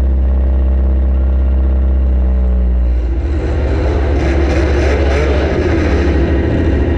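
Demolition derby compact car's engine running, heard from the car's onboard camera: steady for the first few seconds, then rougher and noisier from about three seconds in.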